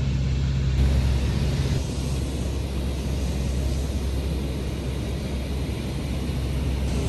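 Tour boat's engine running steadily, a low drone under a hiss of wind and water; one part of the hum drops out about two seconds in and the sound eases slightly.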